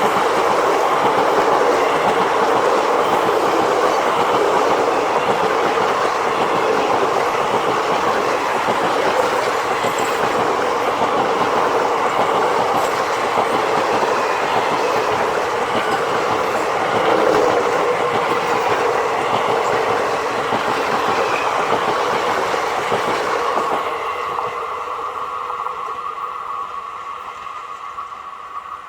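Express passenger train passing at speed, its wheels clattering over rail joints, then fading from about 24 s in as it draws away.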